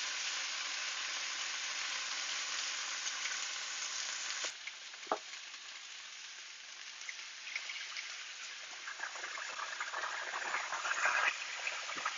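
Chicken breasts frying in a cast-iron skillet with a steady sizzle. There is a sharp click about four seconds in and a knock just after, then the sizzle drops a little. Near the end it crackles louder as chicken stock is poured into the hot pan.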